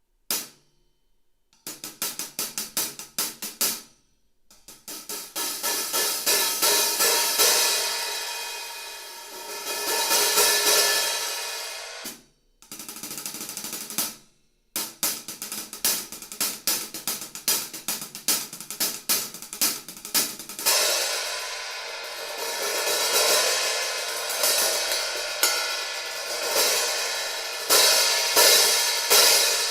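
Arborea Hybrid AP B20 bronze cymbals (hi-hat, crashes and ride) being played for a sound test: quick runs of strikes alternating with long swelling washes of ringing cymbal, broken by a few brief stops where the sound cuts off.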